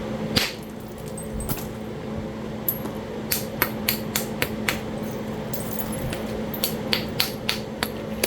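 Sharp clicks of a knapping tool striking a piece of Talahata quartzite being worked into a biface. There is one louder strike about half a second in, then runs of quick light taps, about three a second, in the middle and near the end, over the steady hum of a room fan.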